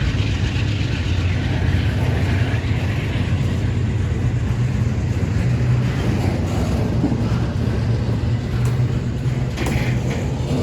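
Norfolk Southern intermodal freight train rolling past with a steady low rumble. A few sharp clicks come near the end.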